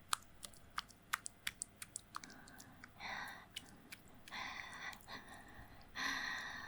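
Close-miked wet mouth clicks and lip sounds, with three heavy breaths about three, four and a half, and six seconds in.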